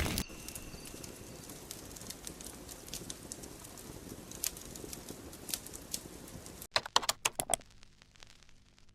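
Fire crackling: a soft hiss with scattered sharp pops. About seven seconds in it cuts off abruptly, a few louder clicks follow, and then only a faint low hum remains.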